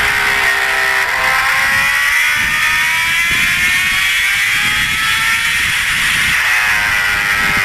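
Motorcycle engine running under way, its pitch rising steadily for a few seconds as it speeds up, over a rush of wind and road noise.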